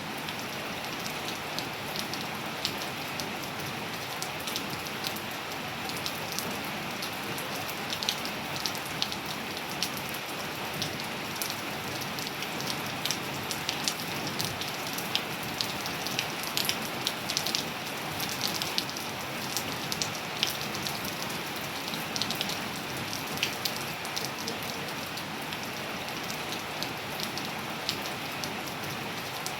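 Steady rain falling on surfaces: an even hiss with many separate drops ticking and pattering through it.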